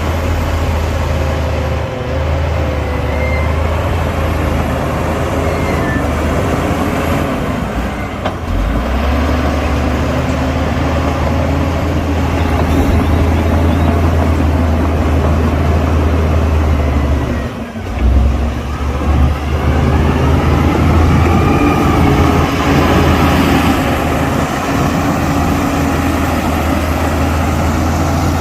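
Heavy diesel earthmoving machinery running: the engine rumbles steadily while its pitch rises and falls with load, and the sound drops briefly about two thirds of the way through.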